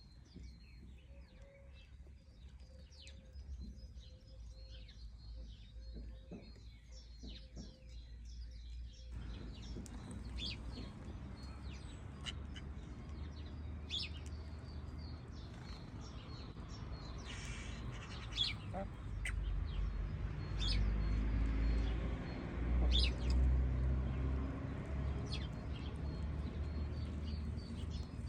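Small birds chirping: short, high chirps scattered throughout, over a low rumble that grows louder in the second half.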